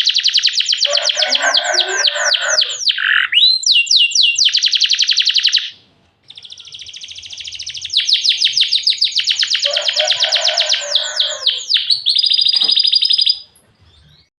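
Domestic canary singing in long, rapid trills of fast-repeated notes, broken by runs of quick downward-sweeping notes. The song comes in two phrases, with a brief pause about six seconds in, and stops about a second before the end.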